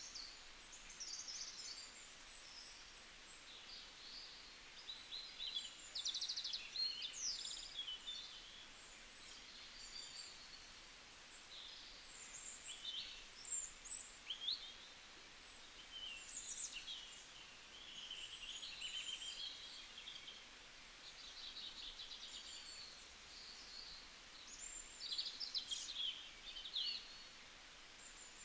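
Several small songbirds calling and singing, with quick high chirps, short trills and fast rattling notes overlapping in irregular bouts, over a faint steady background hiss.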